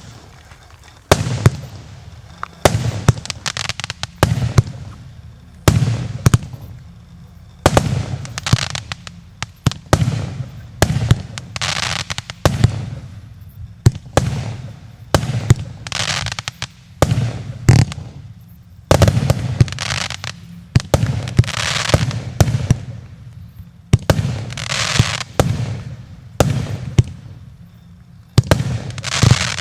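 "Fantasy" JF C20-25-30-78/02 multi-shot firework battery firing shot after shot, about one sharp bang a second, each followed by a short hiss. The first shot comes about a second in.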